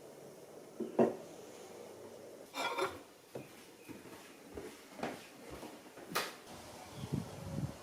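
Kitchen handling sounds: scattered knocks and clinks of dishes and cutlery, with a short rattle about two and a half seconds in.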